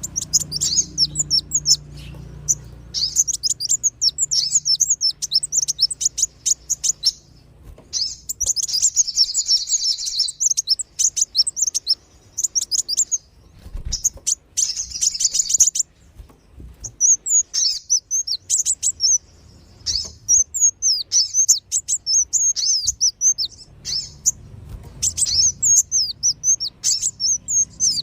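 Sunbirds (kolibri wulung and sogon) chirping in quick, high-pitched, agitated twittering, used as a lure call. The chirping comes in runs of several seconds with short pauses between them.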